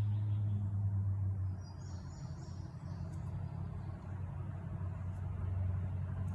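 Steady low hum of a running vehicle, with faint high chirping about two seconds in.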